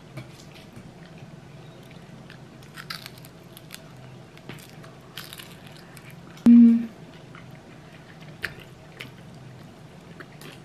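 A person chewing food close to the microphone, with many small crunches and soft clicks. There is one brief voice sound, like a short hum, about two-thirds of the way through.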